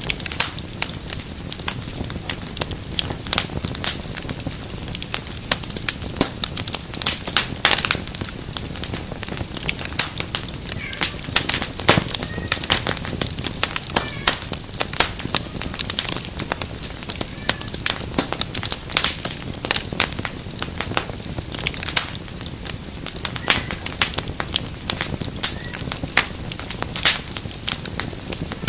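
Wood fire crackling steadily, with frequent irregular sharp pops and snaps over a soft hiss of flames.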